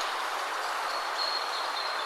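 Steady wind rushing through trees, with a bird giving a thin, high, drawn-out whistle about a second in.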